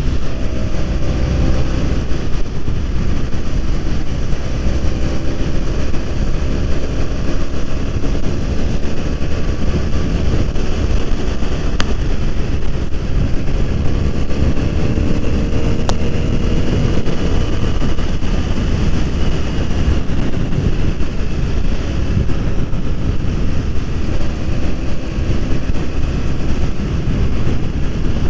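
BMW F 800 R's parallel-twin engine running at road speed under heavy wind noise on the microphone, its pitch slowly rising and falling with the revs.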